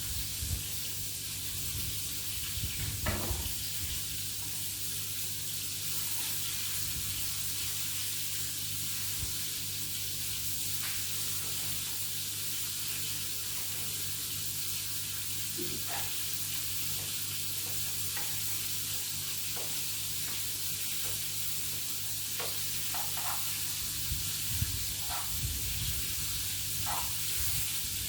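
Vegetables frying in a hot pan, a steady sizzle, with a few light clicks scattered through it.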